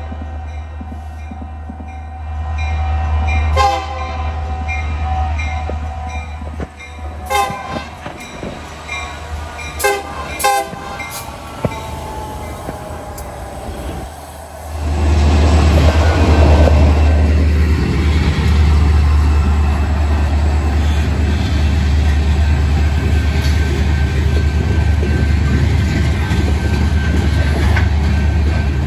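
Union Pacific diesel freight locomotive sounding its multi-tone horn in a series of blasts, several short ones near 10 s. About 15 s in, the locomotives pass close by with a sudden loud engine rumble, followed by the steady noise of the freight cars rolling past.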